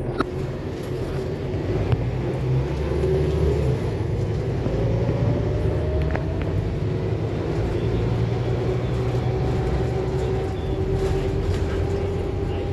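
Inside a Scania K280UB4 city bus under way: the five-cylinder diesel engine and drivetrain run steadily, with a whine that rises in pitch about halfway through as the bus picks up speed.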